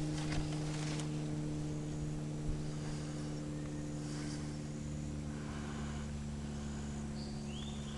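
A steady low hum made of several held tones, with a few faint clicks in the first second and a short rising whistle near the end, typical of a bird's whistle.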